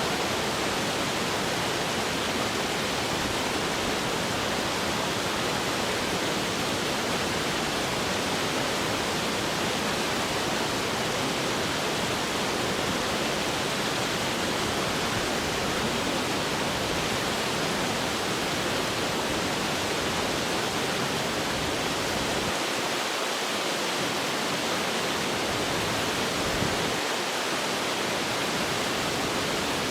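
Fast-flowing water rushing steadily, an even hiss without breaks.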